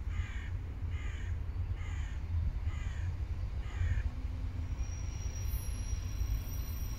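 A bird gives five harsh calls, about one a second, over a low steady rumble.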